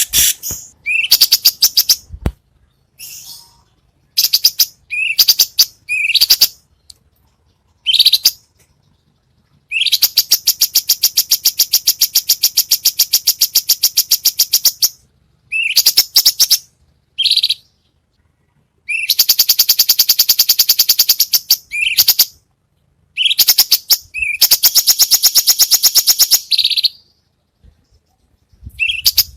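Songbird song from a masteran tutoring recording: short rising chirps alternating with long, very rapid trills of about a dozen notes a second, each running for several seconds and stopping abruptly.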